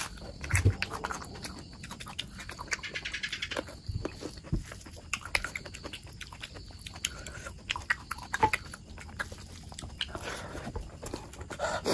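Close-miked eating: wet chewing, biting and lip-smacking on oily mutton fat curry and rice, heard as a steady stream of short, sharp, wet clicks, with a quick run of them about three seconds in.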